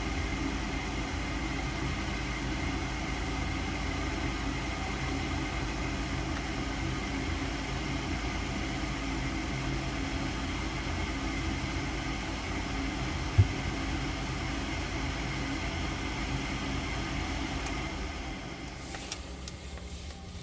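Gas furnace's fan motor running with a steady hum and whir; there is a single sharp click about 13 seconds in, and the motor winds down near the end.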